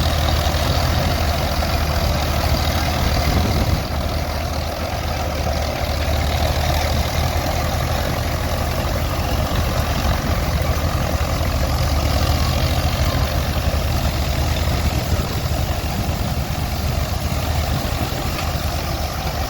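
Vintage crawler tractor engine running steadily under load as it pulls a combine harvester through standing wheat, a constant low engine hum mixed with the combine's mechanical running.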